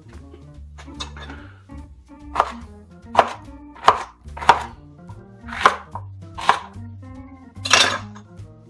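Knife chopping on a cutting board: about seven sharp, unevenly spaced strokes, with background music under them.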